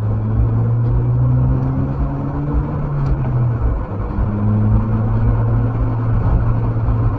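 Car engine and road noise recorded from inside a moving car by its dashcam. The engine's low hum rises slightly in pitch, drops back about three and a half seconds in, then holds steady.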